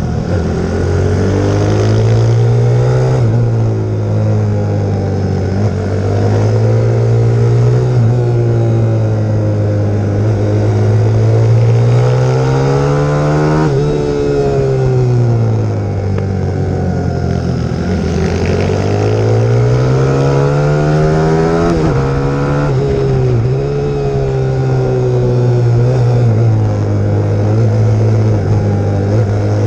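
Single-cylinder four-stroke YX150 pit bike engine being ridden hard. Its pitch climbs in long sweeps and falls back again and again, dropping sharply about halfway through and again a little past two-thirds, as the throttle is opened and shut through the turns.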